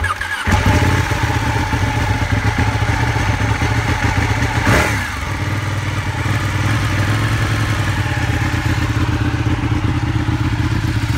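Ducati Panigale 1299's 1285 cc Superquadro V-twin catching from the starter about half a second in, then idling with a steady, even pulse. There is one short throttle blip about five seconds in.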